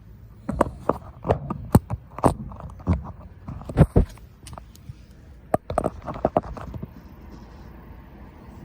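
Irregular knocks and clicks for about six seconds, then a steady low rumble sets in near the end.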